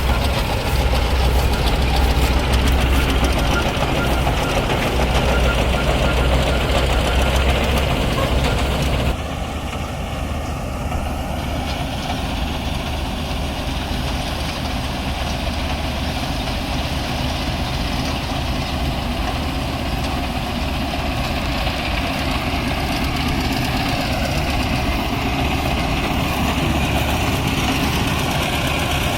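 Heavy farm-machine engine running steadily, with a strong deep hum. About nine seconds in the sound drops abruptly to a slightly quieter, steady engine running.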